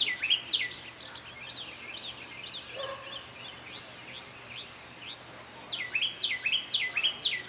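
Songbird singing: a loud phrase of quickly repeated down-slurred whistled notes at the start and again near the end, with fainter chirps from other birds in between.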